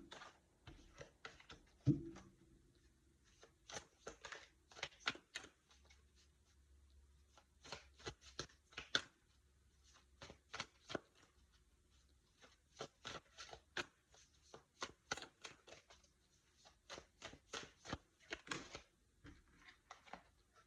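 Tarot cards being shuffled by hand: faint clusters of quick crisp flicks and clicks, with one soft thump about two seconds in.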